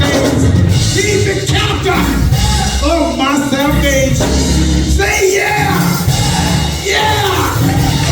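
Live gospel church music: one strong voice singing or chanting in phrases over a full instrumental backing with heavy bass.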